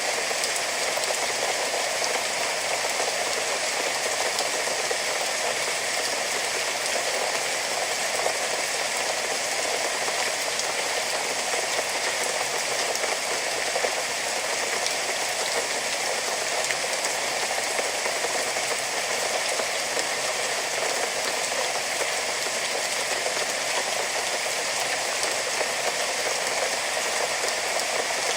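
Steady rain falling, an even, dense patter of drops with no let-up.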